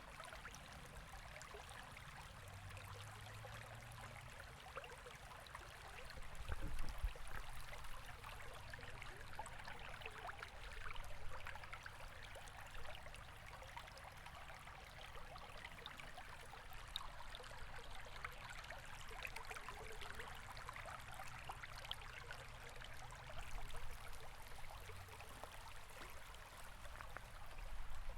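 River water running steadily, a continuous babbling rush. Under it a low rumble swells briefly a few times, most strongly about seven seconds in.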